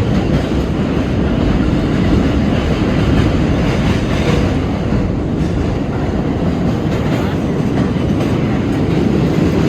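R32 subway car in motion through a tunnel, heard from inside the car: a steady, loud rumble of steel wheels on the rails with some clatter.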